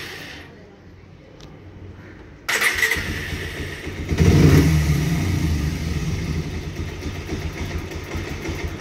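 Bajaj Pulsar 125 DTSi engine cutting out, then after a short lull the electric starter cranks about two and a half seconds in. The single-cylinder engine catches about a second and a half later and keeps running at idle.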